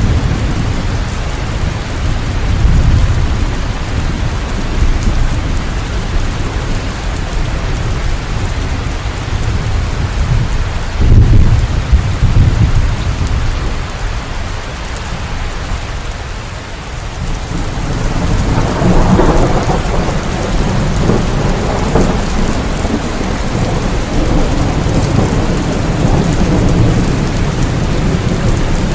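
Rain falling steadily during a thunderstorm, with low rolling thunder underneath. The loudest rumble comes about eleven seconds in, and after a short lull just past the middle the rain grows stronger.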